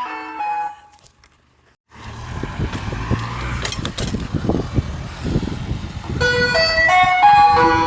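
Ice cream van's chime tune playing, breaking off just under a second in. After a brief near silence comes engine and street rumble, and the chime melody starts again about six seconds in.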